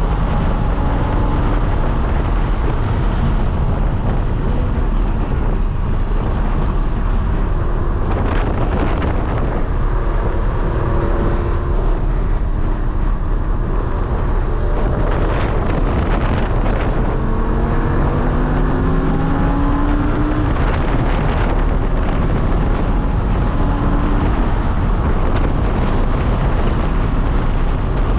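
Lamborghini Huracán's V10 engine at track speed, its pitch climbing and dropping again and again as it revs and shifts, under heavy wind and road noise.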